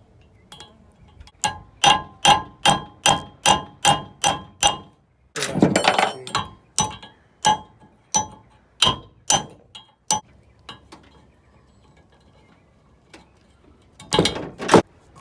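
Hammer striking a nail used as a punch against the pin of a hitch's spring bar locking device, trying to drive the pin out. There is a run of about ten ringing metal-on-metal blows at roughly three a second, a short rough scraping burst, then a slower string of blows, and a brief clatter near the end.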